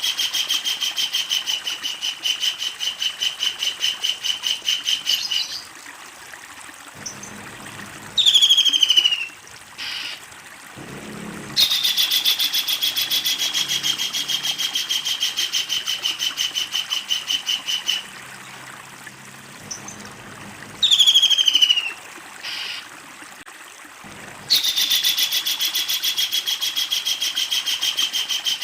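A kingfisher calls in long, fast rattling series of sharp, evenly repeated notes: the drawn-out 'ngekek' chatter. Twice, in the pauses between series, it gives a short, loud, falling call.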